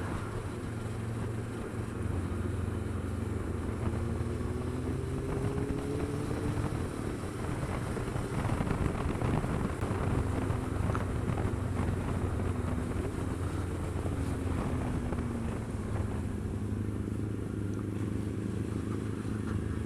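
Motorcycle engine running under way, its pitch rising and falling as the rider works the throttle, over wind rushing past the microphone.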